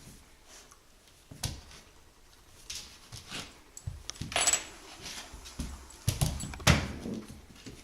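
A puppy playing on a kitchen floor: irregular knocks, scuffles and clatter come in short bursts, loudest about four and a half seconds in and again near the end.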